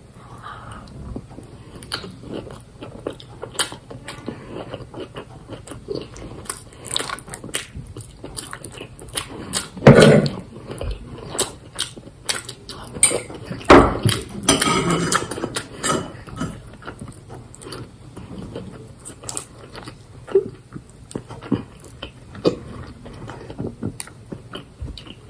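Close-up chewing and mouth sounds of someone eating sauced penne pasta, with scattered clicks of a fork against a small steel bowl and a couple of louder knocks about ten and fourteen seconds in.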